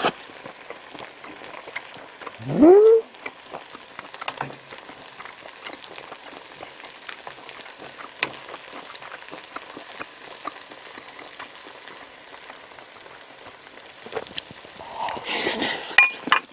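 Close-up eating sounds of a person chewing spicy stir-fried octopus and rice, with a steady wet crackle of small mouth clicks. About two and a half seconds in there is a short hummed "mm" that rises in pitch, and near the end the chewing grows louder.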